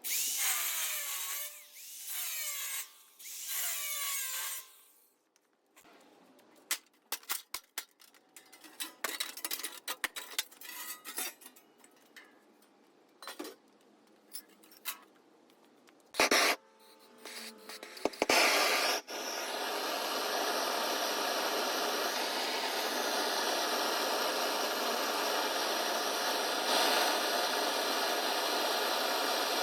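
Metalworking on a steel plate. It starts with three rasping scraping strokes with a squeal that falls in pitch, then scattered taps and knocks. From about two-thirds of the way in, a power tool runs steadily on the metal.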